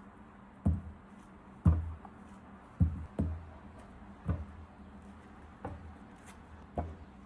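A series of dull knocks, seven of them, about one a second at uneven intervals.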